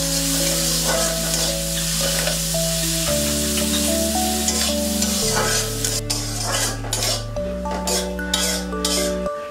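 Sliced onions frying in hot oil in a metal karai, sizzling steadily, while a metal spatula stirs and scrapes against the pan. In the second half the sizzle thins and the separate spatula strokes stand out.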